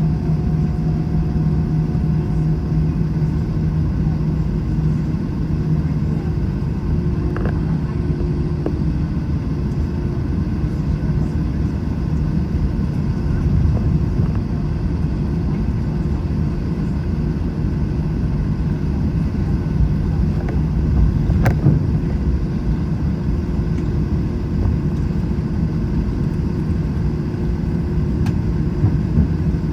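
Steady engine hum and rumble inside the cabin of an Airbus A321 airliner while it taxis, with one sharp click about two-thirds of the way through.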